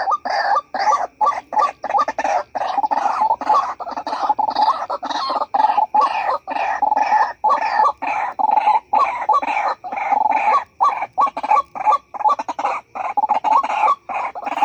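White-breasted waterhen calls: a long, unbroken run of short repeated notes, about three a second.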